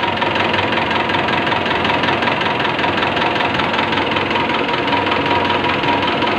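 CAV rotary diesel fuel-injection pump running steadily under test, with a dense rapid rattle and a steady high whine.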